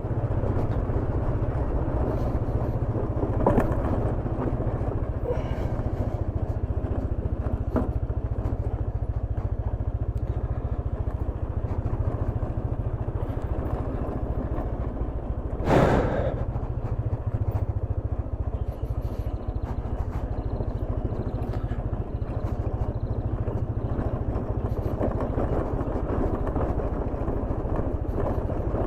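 Motorcycle riding through traffic, its engine and road noise running steadily under a constant low wind rumble on the microphone. About halfway through there is a short, louder burst.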